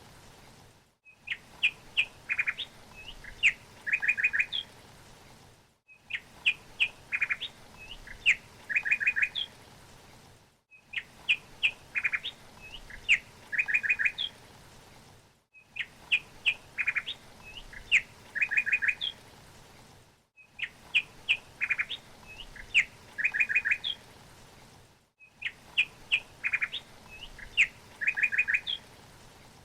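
Songbird chirps and short rapid trills, the same phrase repeating about every five seconds with a brief silent break between repeats, as in a looped recording. A faint steady hiss lies beneath.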